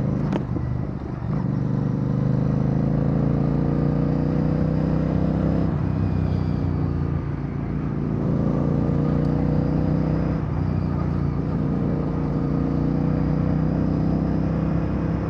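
Royal Enfield Bear 650's 648 cc parallel-twin engine running through a Red Rooster Performance aftermarket exhaust while riding. The revs climb slowly, fall at a gear change about six seconds in, climb again, and after another shift about ten seconds in settle to a steady cruise, with low wind rumble underneath.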